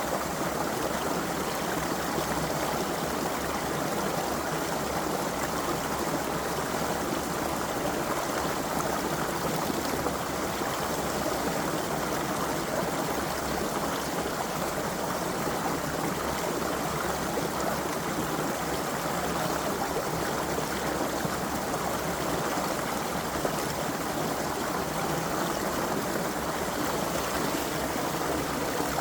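Creek water flowing and babbling over stones, a steady rushing and trickling sound with no change.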